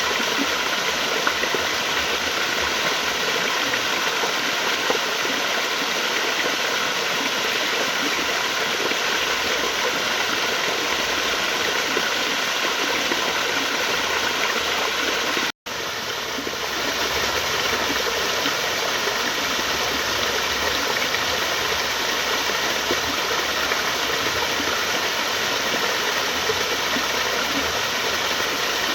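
Water flowing and rushing steadily, like a stream or small waterfall. About halfway through it cuts out for an instant and comes back, a little quieter at first.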